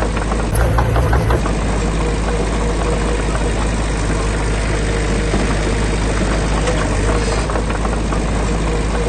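Heavy diesel engine of construction machinery running steadily, with runs of quick clattering about a second in and again near the end.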